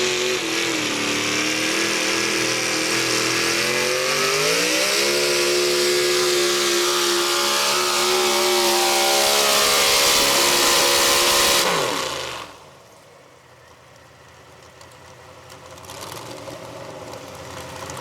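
Modified four-wheel-drive pulling truck's engine running at full throttle under load down the pull track, revs climbing about four seconds in and holding high. About twelve seconds in it winds down and cuts off, the end of the pull.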